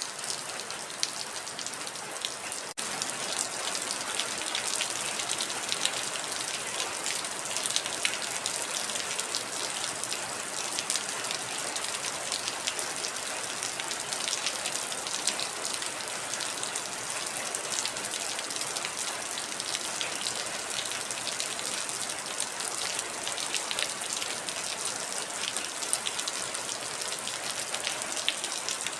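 Heavy rain falling steadily: a dense hiss full of fine drop patter, with a momentary break about three seconds in.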